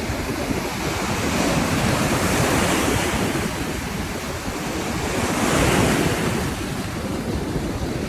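Ocean surf breaking and washing in, swelling twice as waves come in, with wind buffeting the microphone.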